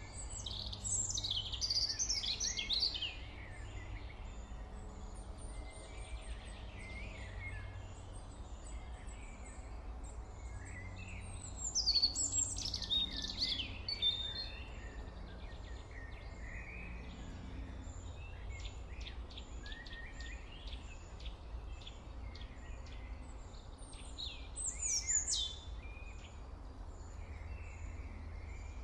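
Birds chirping and singing in three louder bursts, about a second in, around the middle and near the end, with scattered quieter chirps between, over a steady low hum.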